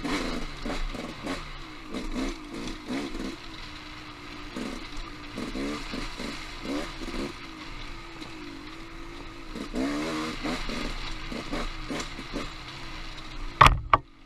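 Dirt bike engine on a rocky singletrack trail, the throttle opened and closed over and over so the engine note rises and falls, with clatter from the bike over the rough ground. Near the end two loud sharp knocks come close together.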